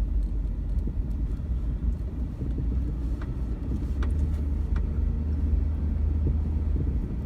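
Vehicle being driven on a rough dirt road, heard from on board: a steady low engine and road rumble with a few faint knocks.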